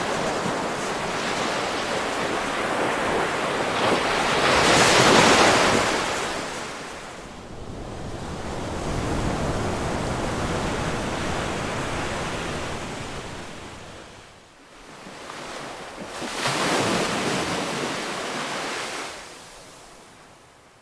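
Ocean surf washing in and drawing back in slow swells. The loudest wave breaks about five seconds in, a longer, gentler one follows, and another breaks near the end before the wash fades.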